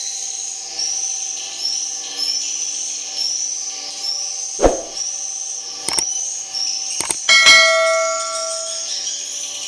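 Swiftlet chirps repeating steadily about every two-thirds of a second. Several sharp knocks cut through them, and about seven and a half seconds in a metallic clang rings on for over a second.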